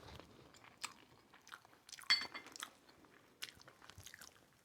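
A person chewing balut (boiled fertilized duck egg), with soft wet mouth clicks and one louder click about two seconds in.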